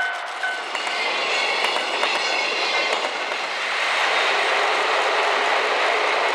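A train running past on the tracks, a steady rushing rumble of wheels on rail with some clicking, growing louder and fuller from about four seconds in.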